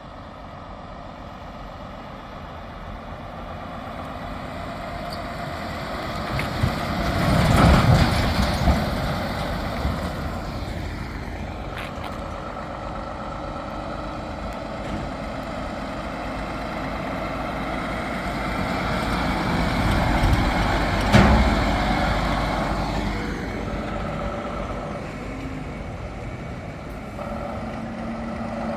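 Heavy trucks driving past one after another, the engine and road noise swelling as each goes by. It is loudest about eight seconds in and again around twenty-one seconds.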